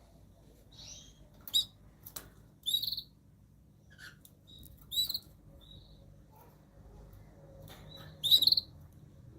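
Small birds giving short, separate high chirps every second or so, loudest about three seconds in, at five seconds and near the end.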